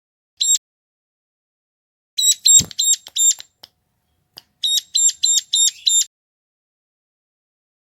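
Ciblek gunung (a prinia) calling: a single sharp, buzzy note, then two quick runs of five or six such notes. There is a dull thump partway through the first run.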